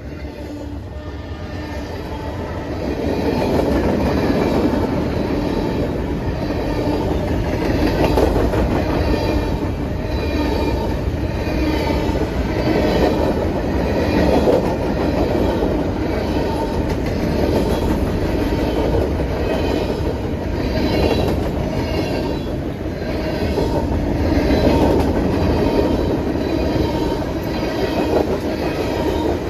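Freight train cars rolling past at close range: a steady heavy rumble that builds over the first few seconds, with the wheels clicking over rail joints in a regular rhythm about once a second.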